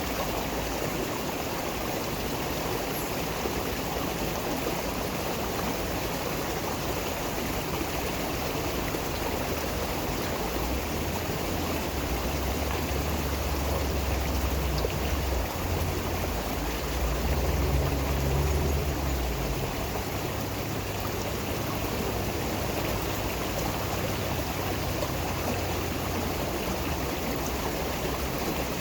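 Flowing stream water, a steady even rush. A deeper low rumble swells about ten seconds in and fades again near twenty seconds.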